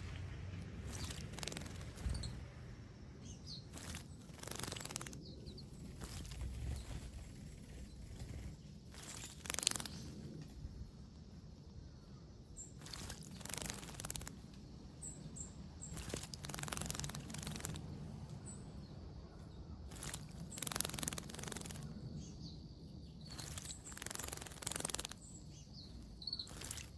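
Small birds bathing, splashing in water in short irregular bursts, with a few faint chirps.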